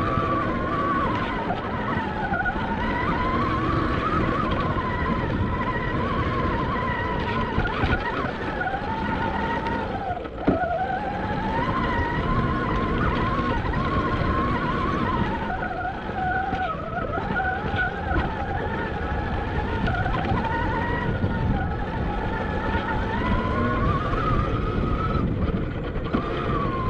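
Admitjet Armor electric dirt bike on a trail ride: the motor's whine rises and falls with speed, over heavy wind noise on the helmet-camera microphone and the rumble of riding over rough ground. A single sharp knock comes about ten seconds in.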